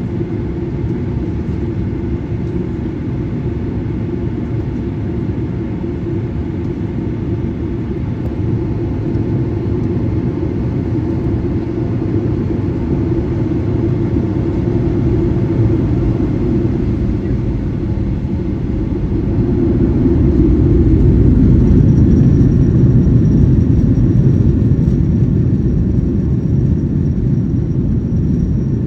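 Boeing 737-900ER engine noise (CFM56-7B turbofans) heard inside the cabin: a steady rumble that grows louder about 20 seconds in. A thin, high steady whine joins a couple of seconds later.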